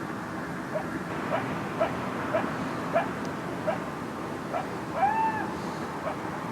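Coyotes barking: a string of short, sharp barks about two a second, with a brief rising-and-falling howl about five seconds in.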